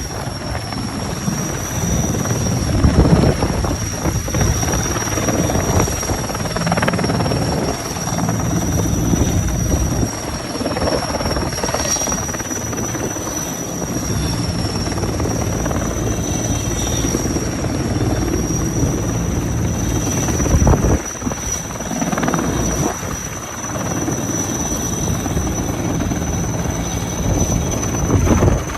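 Helicopter running close by: a steady, high turbine whine over the even low beat of the rotor blades, swelling louder now and then.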